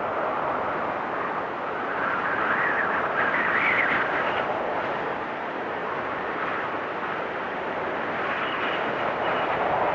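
Blizzard wind blowing in gusts, a steady rush that swells about two seconds in, eases off around the middle and builds again near the end, with a howl that slides up and down in pitch.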